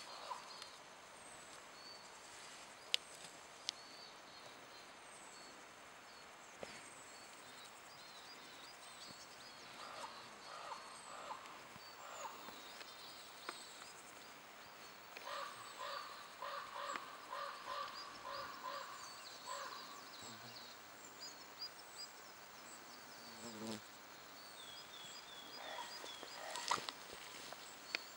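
Faint small-bird chirping and trills outdoors, with a run of lower repeated calls about halfway through and a few sharp clicks.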